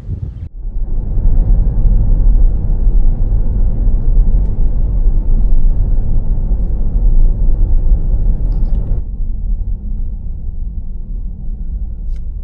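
Loud, low rumble of a car driving. It starts abruptly about half a second in and drops off sharply near nine seconds, leaving a quieter rumble.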